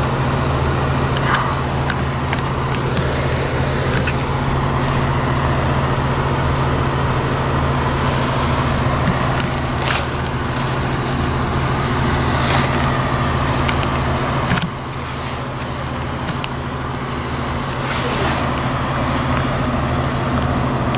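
A vehicle engine idling nearby: a steady low hum with a few faint clicks. It gets a little quieter about fifteen seconds in.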